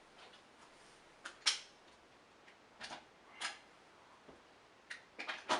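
Scattered sharp clicks and light knocks of hard parts of a vintage upright vacuum cleaner being handled, about seven in all, in pairs and a quick cluster near the end.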